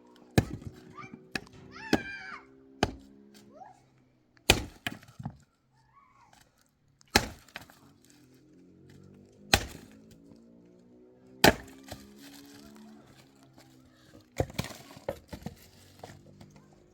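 Wood being chopped or split, a series of sharp cracking blows one to three seconds apart, over soft background music.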